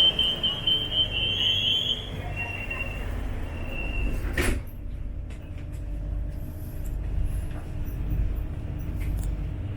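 Rail carriage doors closing: a high electronic warning tone for about two seconds and a brief second tone, then the doors knock shut about four and a half seconds in. After that the train runs with a steady low rumble and hum.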